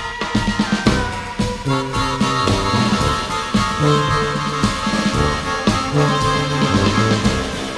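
Instrumental jazz from a small brass-led ensemble of trumpets, baritone saxophone, tuba, keyboards and drums: held horn notes over a low bass line moving in steps, with drums keeping time.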